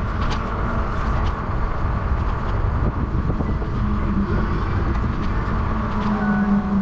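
Steady rumble of wind and road noise while riding a bicycle, with a low hum that swells about four seconds in and again near the end.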